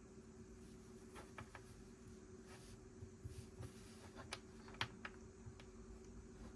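Lego pieces being handled and snapped together: a few small, sharp plastic clicks, three in quick succession about a second in and then single ones, the loudest near the end, over a faint steady hum.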